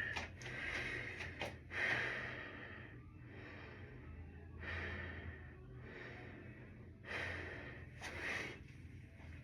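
A person breathing, with several audible breaths about a second long each, over a steady low hum.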